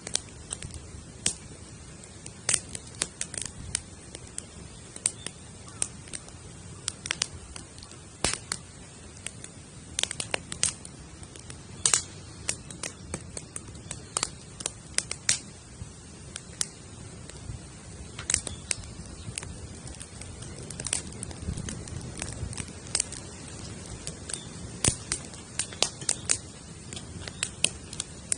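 Wood campfire built teepee-style, crackling with irregular sharp snaps and pops, some louder than others, over a steady low background sound of burning.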